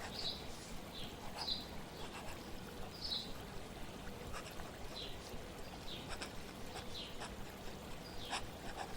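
Steady flowing-water ambience with small birds chirping now and then, about seven short chirps in all.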